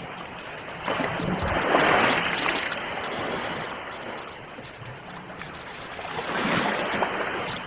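Rushing water, surging loud and easing off in slow swells.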